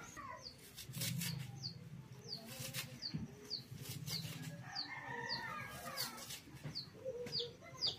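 Birds chirping: a run of short, high, falling chirps about two a second, with lower calls around the middle.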